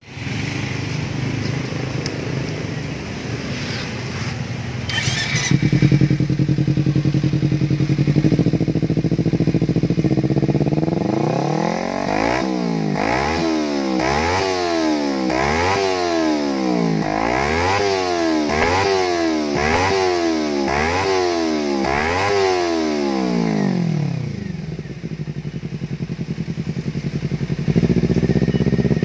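An engine idling steadily, then revved up and down about once a second for a dozen seconds, settling back to idle near the end and picking up again at the close.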